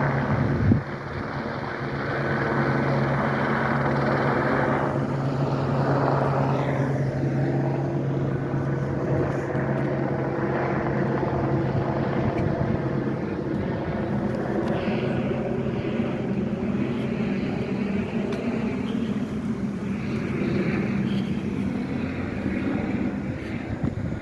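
Steady engine drone whose pitch shifts a few times, with a single knock about a second in.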